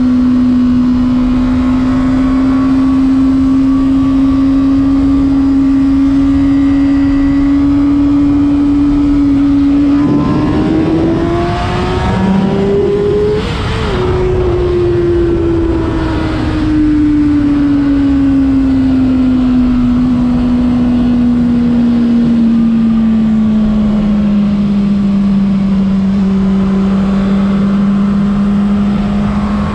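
Honda CBR600RR's inline-four engine under way at high revs, with wind rushing over the microphone. The engine note climbs for a few seconds near the middle, breaks off briefly, then slowly falls away as the revs drop.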